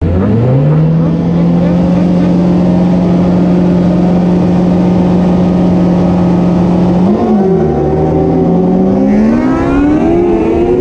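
Superbike engine revved up and held at steady revs for about six seconds, then the revs dip briefly about seven seconds in and climb steadily as the bike accelerates.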